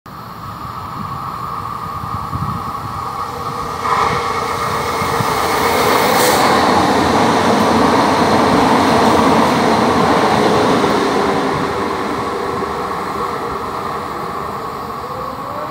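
Trenitalia regional train running along the platform and away. Its rumble and steady whine swell sharply about four seconds in, are loudest about six to ten seconds in, then fade as it draws away.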